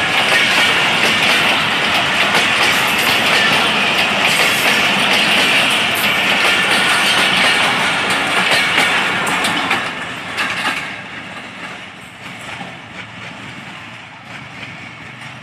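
Passenger coaches of a Pakistan Railways express train passing close by at speed: a loud rumble with rapid clicks of the wheels over rail joints. About ten seconds in, the sound drops away as the last coach passes and the train recedes.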